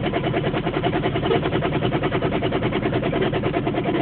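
Failing car engine running under strain at a crawl, heard from inside the cabin, with a fast, even pulsing. The engine is near the end: the driver fears it will seize if the car stops.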